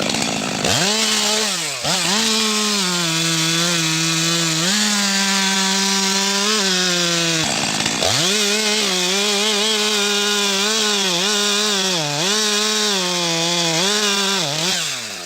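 Two-stroke chainsaw running at high revs while cutting into a tree trunk. Its pitch sags under load and recovers several times, dropping sharply about eight seconds in and again near the end.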